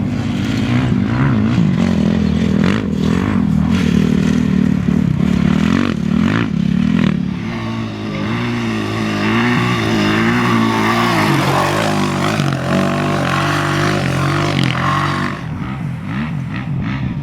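Off-road racing vehicle's engine running hard, its pitch rising and falling with the throttle, with scraping and clattering over rough ground.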